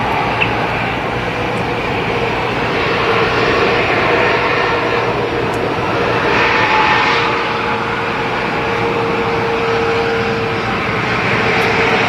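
Jet airliner engines running, a steady rush of noise with a constant whine through it, swelling slightly about four and seven seconds in.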